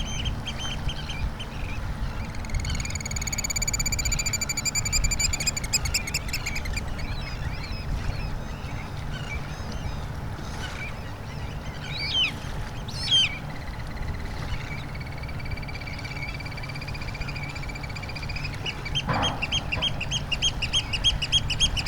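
Birds calling, with long held calls and fast runs of repeated short notes, over a steady low rumble.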